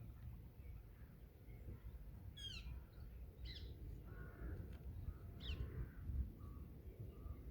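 Wild birds calling: short, high phrases falling in pitch about two and a half, three and a half and five and a half seconds in, with lower calls between them, over a steady low rumble.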